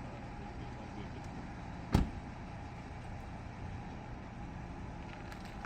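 Steady low rumble of motor vehicles on the street, with one sharp knock about two seconds in.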